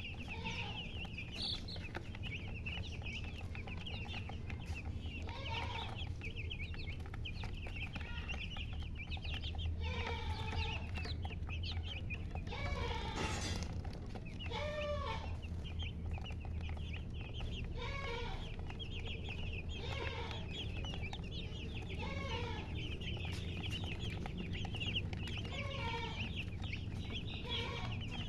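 Many chicks peeping continuously, with a hen's clucking calls repeating every two to three seconds.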